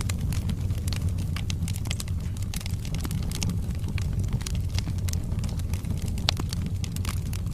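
Wood fire burning in a fireplace: a steady low rumble of flames with many irregular crackles and small pops from the burning logs, one sharper pop a little after six seconds in.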